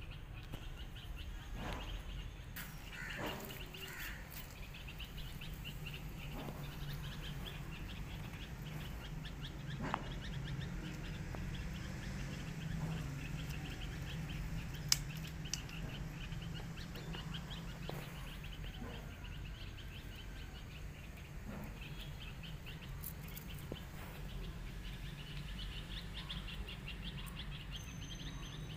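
Outdoor ambience of small birds chirping continuously in fast, rapid runs, over a steady low hum.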